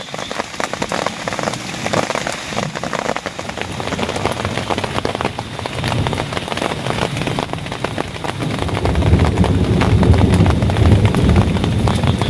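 Heavy rain falling steadily in a dense patter. A deep low rumble builds about two-thirds of the way in and becomes the loudest sound.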